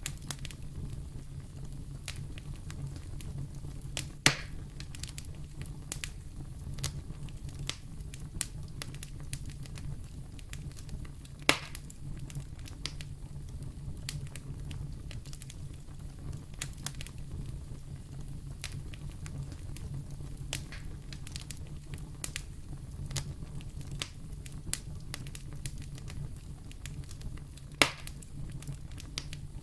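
Wood fire burning in a fireplace, crackling steadily over a low rumble, with three sharp, louder pops spread through it.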